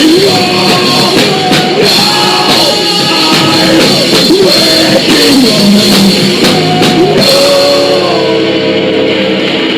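Live rock band playing loud: drums, electric guitar and sung vocals. The cymbals drop away about eight seconds in.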